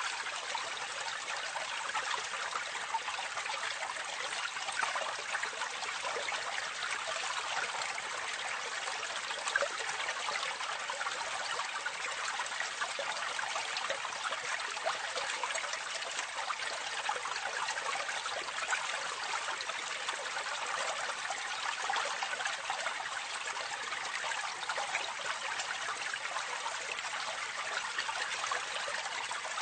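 Water running steadily into a drain, recorded close up: a dense, even splashing trickle with many small drips and little deep rumble.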